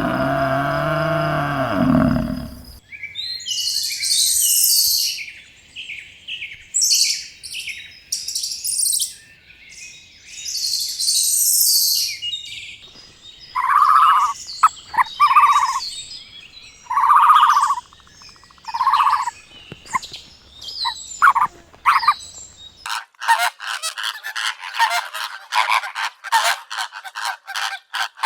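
Poultry calls in succession: after a low animal call at the start, high chirping, then a run of short, loud honks, and near the end a dense chatter of rapid calls.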